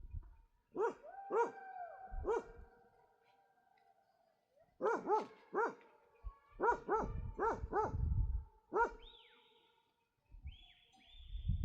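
A dog barking in quick runs of several barks, with pauses between the runs, and a few higher whining calls near the end.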